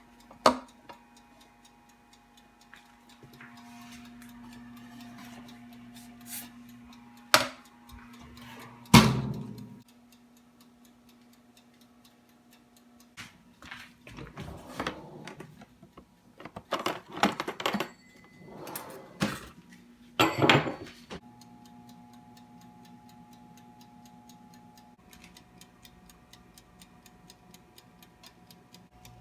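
Steady ticking throughout, over the hum of a running kitchen appliance. A loud knock comes about nine seconds in and the hum stops; a run of knocks and clatters follows, and then a hum with a steady tone starts up again.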